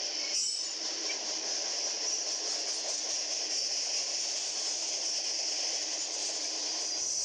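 Double-stack intermodal container freight train rolling past, a steady noise of wheels on rails with a high hiss and no distinct clicks or beats.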